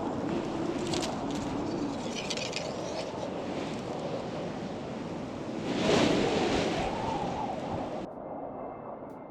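Strong blizzard wind rushing across the microphone, with a faint wavering whistle and a gust swelling about six seconds in. The sound turns duller near the end.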